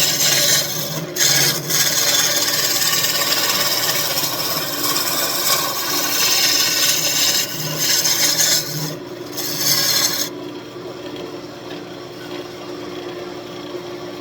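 A lathe tool cutting the square corners off a walnut desk leg spinning on a wood lathe: a loud, rough scraping hiss with a couple of brief breaks while the stock is rounded. About ten seconds in the cutting stops, leaving only the lathe running with a quieter hum.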